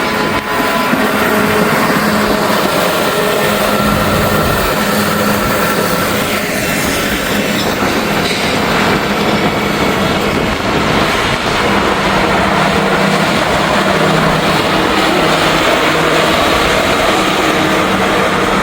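Railroad maintenance-of-way equipment passing on the track, a steady engine hum under wheel and rail noise, with wind rumbling on the microphone.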